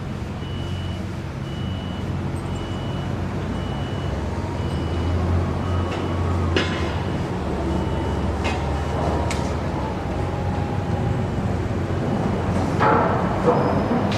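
Heavy construction vehicle's engine running with its backup alarm beeping about every half second, the beeping breaking off and returning. A few sharp metal clanks and bangs come in the second half, the loudest near the end.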